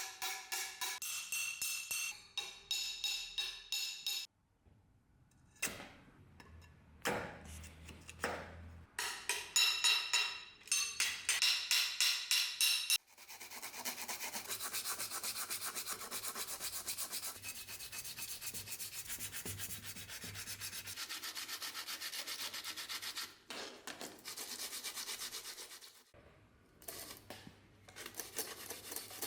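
Abrasive rubbing on the saber's metal. First comes a run of short, rhythmic back-and-forth strokes, then steady continuous rubbing from about halfway in until shortly before the end.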